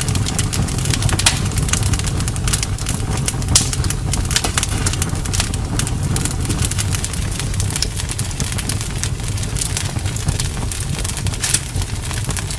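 Campfire burning, with many sharp irregular crackles and pops from the wood over a steady low rumble.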